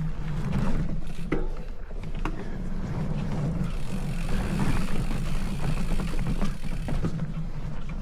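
Ride noise from a bicycle climbing: a steady low rumble with a hiss above it and scattered clicks and taps.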